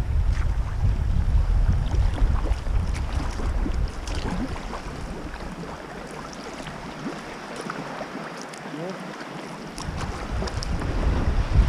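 Wind buffeting the microphone on a sea kayak, with small splashes and water dripping and lapping around the boat. The wind rumble eases about four seconds in, nearly stops for a few seconds, then picks up again near the end.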